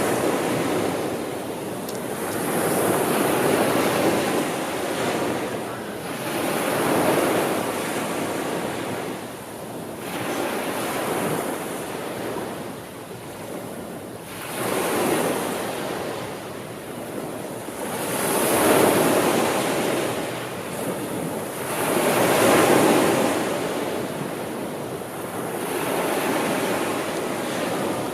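Sea surf: waves rolling in and washing back, swelling and fading about every four seconds.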